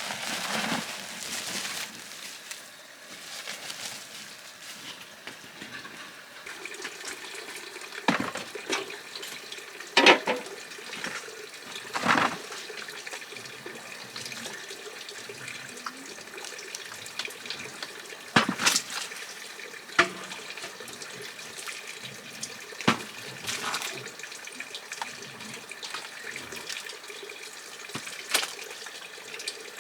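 Running water, like a tap or sink being filled, runs steadily throughout, with several sharp knocks and clatters at irregular intervals, the loudest about ten seconds in.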